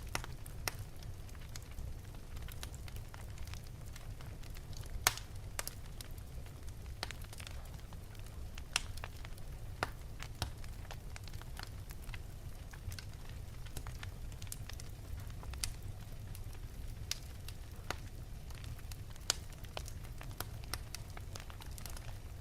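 Wood fire burning in an open fireplace: a steady low rumble of the flames with irregular sharp crackles and pops, the loudest about five seconds in.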